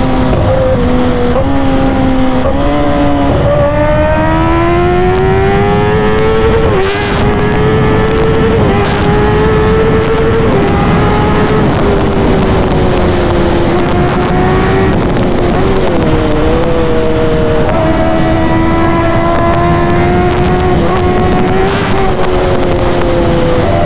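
Kawasaki ZX-10R's inline-four engine through an SC Project exhaust, running at high revs while riding. The pitch rises over the first several seconds, then holds fairly steady with small brief dips.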